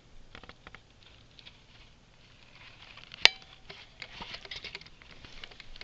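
A dog's claws clicking and pattering on a hard floor as he moves about, with one sharp, much louder click about three seconds in and a quicker run of taps near the end.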